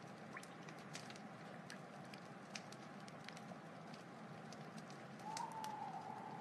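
Wood fire burning, with a steady hiss and scattered sharp crackles and pops. A faint steady whistle runs underneath and grows louder, wavering, about five seconds in.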